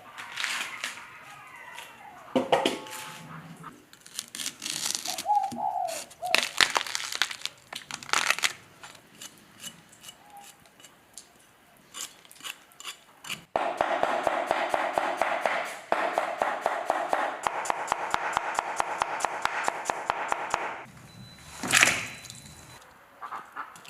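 Kitchen work sounds: scattered sharp knocks and clatter, then about seven seconds of fast, even tapping over a steady rasping sound, and one loud knock near the end.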